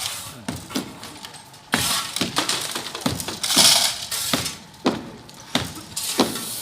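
Demolition of a reinforced-concrete building: a series of sharp cracks and knocks with two longer bursts of crumbling and clattering debris, the loudest a little past the middle.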